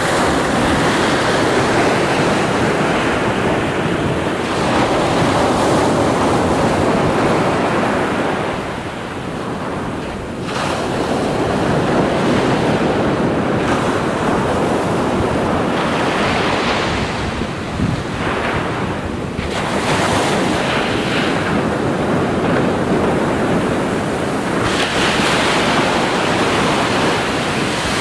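Ocean surf: waves breaking and washing in a continuous roar that swells and eases, with a brief lull twice, and wind rumbling on the microphone.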